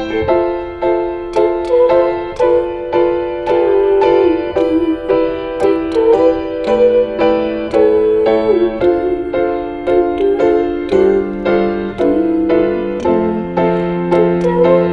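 Instrumental piano music: repeated chords struck at a steady pulse over held bass notes that change every few seconds.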